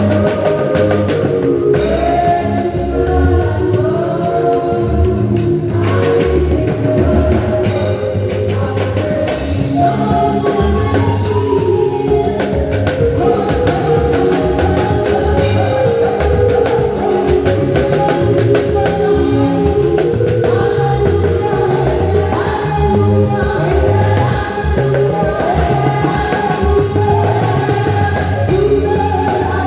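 Gospel song with a choir singing over a drum kit and instruments.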